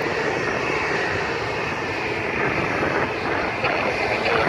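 Airliner engines running at high power as the aircraft takes off, a steady rushing noise.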